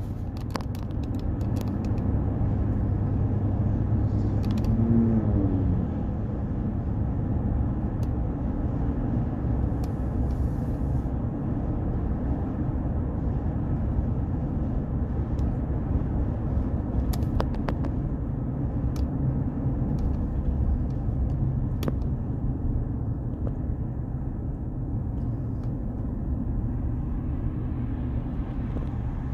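Road traffic: a steady low rumble of vehicles driving, with one engine's pitch briefly rising about five seconds in and a few light clicks.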